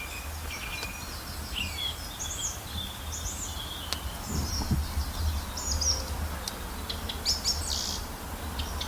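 Small birds chirping and trilling, many short high calls in quick succession, over a steady low rumble.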